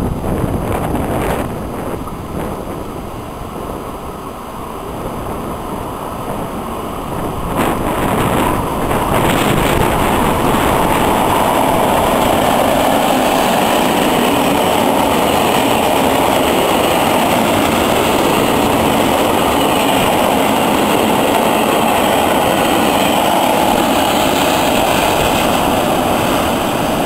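V200 (DB class 220) diesel-hydraulic locomotive approaching and passing close by with its engines running, then a long train of freight wagons rolling past. It gets louder about nine seconds in, and the steady rushing of wheels on rail holds after that, with wind buffeting the microphone before the train arrives.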